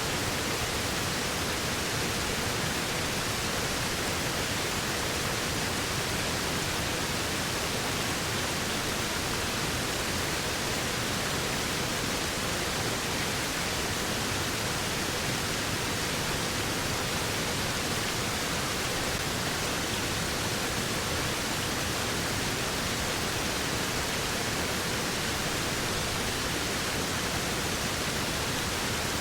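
Waterfall, falling water making a steady, even rush with no breaks or changes.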